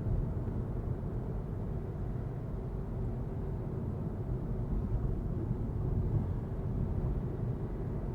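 Steady low rumble of road and engine noise heard inside the cabin of a 2025 Volkswagen Golf TDI diesel while it is being driven.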